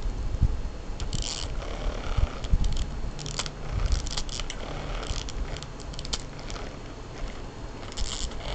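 A dachshund playing with a pull-string cat toy: short scraping, rustling noises come in bursts about a second apart over low thumps of handling.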